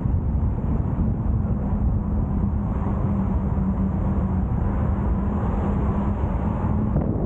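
Car driving along a road: a steady low rumble of road and wind noise with a steady engine drone, which drops away shortly before the end.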